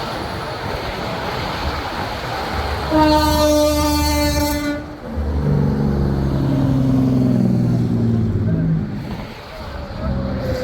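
Semi-truck air horns blowing as trucks pass: one loud, high horn blast for about a second and a half, then a lower, multi-tone horn held for several seconds. Steady traffic and wind noise run underneath.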